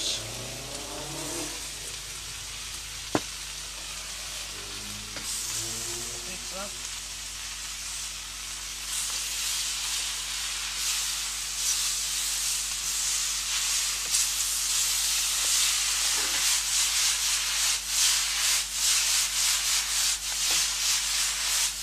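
Stir-fry noodles and vegetables sizzling in a hot pan just after oyster sauce goes in. From about nine seconds in, the frying gets louder with quick irregular scraping as the noodles are stirred and tossed. There is a single sharp click about three seconds in.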